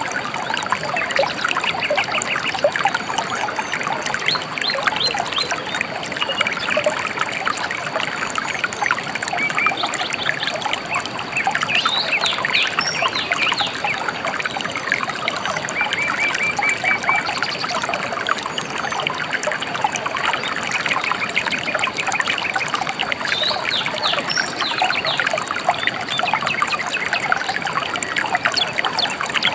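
Shallow river water trickling and babbling steadily over stones, with a few short bird chirps now and then.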